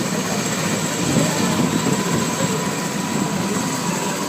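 Helicopter running: a steady drone of engine and rotor noise with a faint constant whine.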